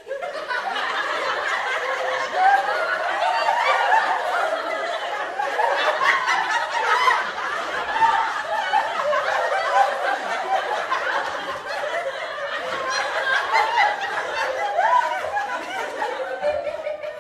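Several people laughing and giggling at once, with overlapping voices throughout.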